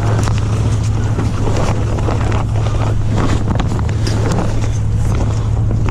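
Wind buffeting the microphone and water rushing past the hull of a sailing keelboat under way, with a steady low hum underneath and irregular gusty surges.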